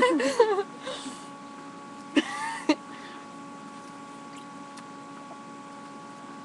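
Quiet room tone with a steady electrical hum, after a voice trails off at the start; a short vocal sound comes about two seconds in.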